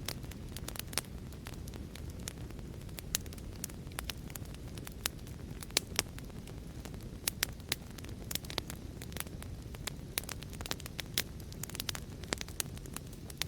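Wood fire crackling: a steady low rumble of burning with sharp irregular pops and snaps, several a second.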